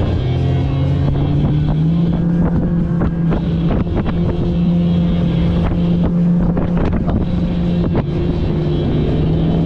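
90-horsepower Evinrude outboard pushing an inflatable Thundercat at speed, its pitch climbing about two seconds in and then holding steady. The hull slaps repeatedly over choppy water, with wind buffeting the microphone.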